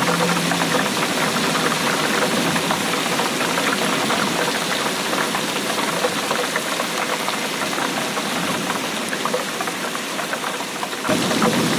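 Steady rainfall, a dense patter of drops hitting a surface. It changes abruptly near the end to a fuller, lower rush.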